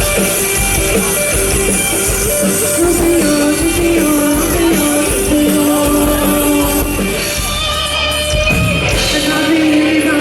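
Rock band playing live, with electric guitars, drum kit and a singer holding long notes; the bass drops away about eight seconds in.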